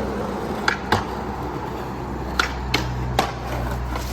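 Skateboards hitting the ground: five sharp, hard knocks of board tails popping and decks landing on pavement, two about a second in and three more between two and three seconds in, over a steady low hum.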